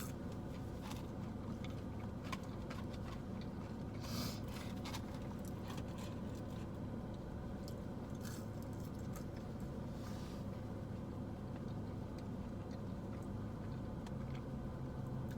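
A person chewing and biting fast food close to the microphone, with short wet clicks and crunches over a steady low hum.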